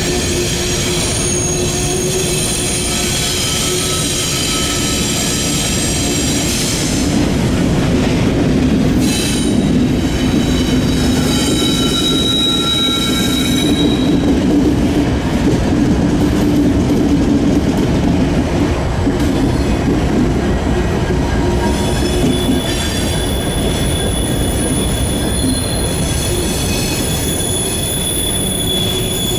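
Empty steel coal hoppers rolling through a curve, their wheels squealing in several high, shifting tones over a steady rumble. Near the middle the mid-train diesel locomotives, an EMD SD70MAC among them, pass and add a heavier low drone.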